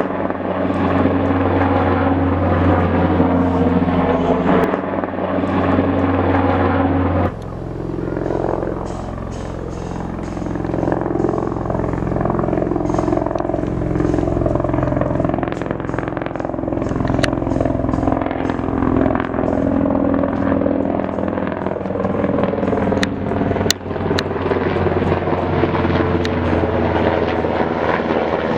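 Helicopter turbine engine and rotor running steadily, the sound changing abruptly about seven seconds in, with a few sharp clicks later on.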